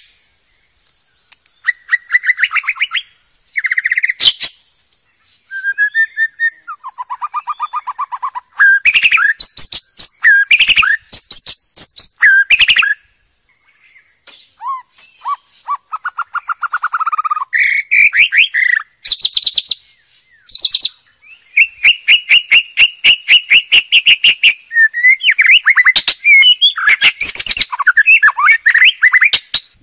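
White-rumped shama singing: varied loud phrases of rapid repeated notes, trills and gliding whistles, separated by short pauses.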